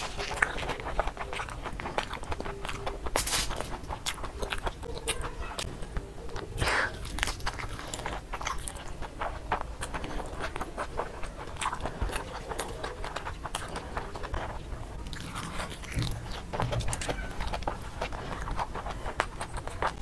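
A person chewing a mouthful of fried sunny-side-up eggs with browned edges, mukbang-style: a steady run of short mouth clicks and smacks.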